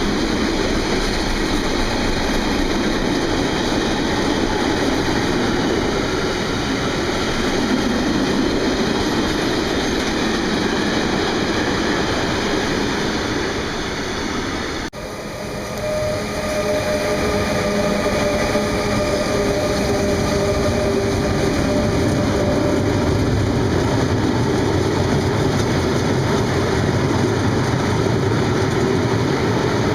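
Freight train running past on the rails, the wagons rumbling steadily with a clickety-clack. There is an abrupt break about halfway through, after which the train noise continues with faint steady tones above the rumble for several seconds.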